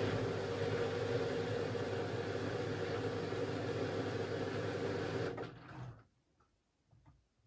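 Beko front-loading washing machine running with a steady hum and whirr, which dies away about five and a half seconds in, leaving near silence.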